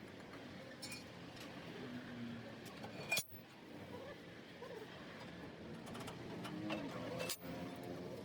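Metal clinking from hand work on a truck axle housing, with one sharp ringing strike about three seconds in and a lighter one earlier, over a low steady workshop background.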